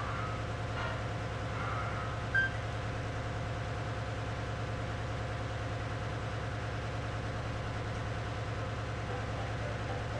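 Steady drone of ship's engine-room machinery running, with an even low pulsing hum and a few held tones. A brief sharp knock sounds about two and a half seconds in.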